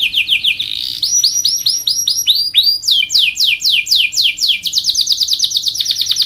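Domestic canary singing a long, loud song of rapid trills: runs of the same short note repeated several times a second, switching to a new note shape every second or two and speeding up into a faster roll near the end.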